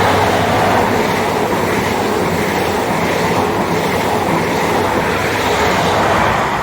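A CrossCountry HST, a seven-coach set with Class 43 diesel power cars, passing through the station: a loud, steady rush of wheels on rail and engine noise that eases off near the end as the rear power car goes by.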